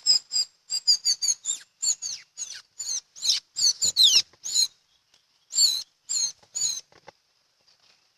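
Teledekan bird calls: a fast run of short, sharp, high chirps, about three a second. The calls stop about seven seconds in.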